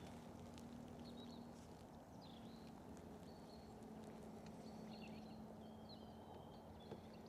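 Near silence: faint outdoor background with a few faint, short bird chirps scattered through it.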